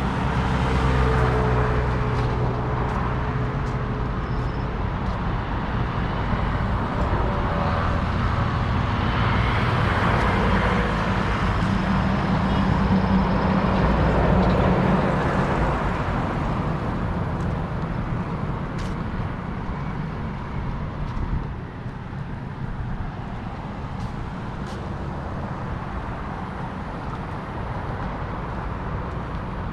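City road traffic: motor vehicle engines run close by and pass in the first half, then fall away about twenty seconds in to a steadier, quieter traffic hum.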